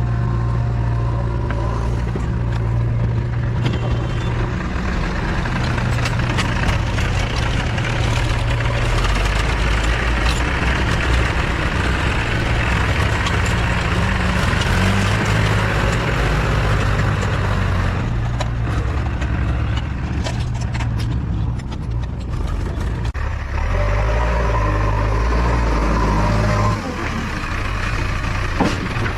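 Backhoe loader's diesel engine running at work, its revs rising and falling as the load changes.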